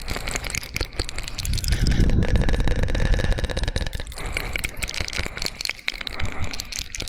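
Fast, wet ASMR mouth sounds close to the microphone: rapid clicks and smacks, heavier and lower-pitched in the middle stretch.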